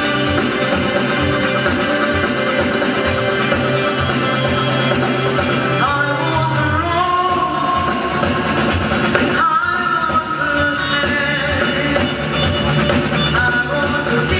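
Rock music with electric guitar, bass and drums; a singing voice comes in about six seconds in.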